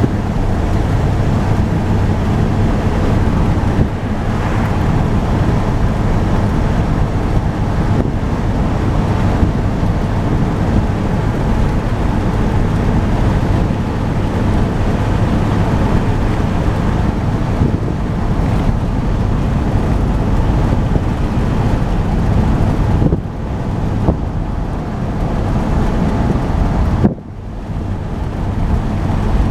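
1976 Ford truck being driven: engine running steadily under way, mixed with road and wind noise. The sound drops away briefly twice near the end and then comes back.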